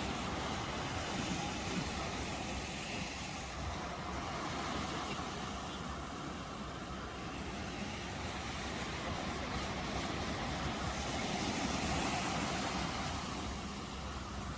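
Ocean waves breaking and washing in, a continuous rushing surf that swells a little louder late on.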